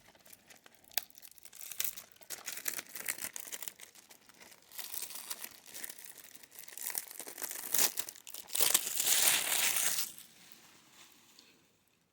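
Plastic shrink-wrap being torn and peeled off a DVD case: irregular crinkling and crackling with sharp rips, loudest in a long tearing rush about two-thirds of the way in, then dying away near the end.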